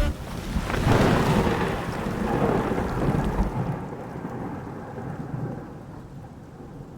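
Thunder rumbling with rain: a roll of thunder builds about a second in and dies away over the next few seconds.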